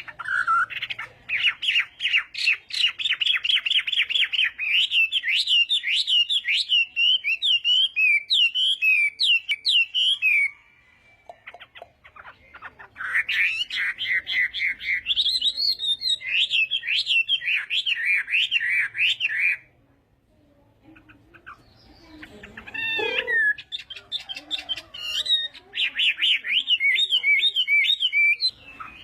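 Chinese hwamei singing: long runs of rapid, varied, repeated whistled notes, in three phrases separated by pauses of a few seconds.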